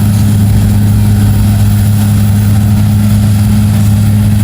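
Mega truck's engine running at a steady speed: a loud, unchanging low drone.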